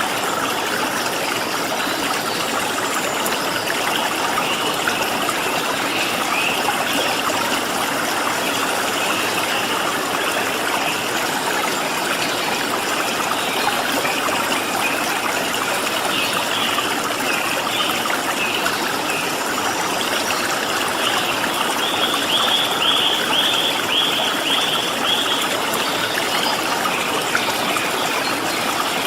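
Steady rush of a flowing stream, with small birds chirping over it; a quick run of chirps comes about three-quarters of the way through.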